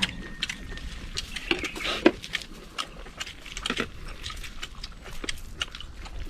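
People eating: irregular clicks and clinks of utensils and dishes mixed with chewing and mouth sounds, with a sharper clack about two seconds in.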